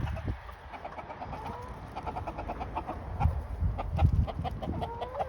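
Domestic hens clucking in short, fairly soft calls, with many faint ticks and a few low thumps around them.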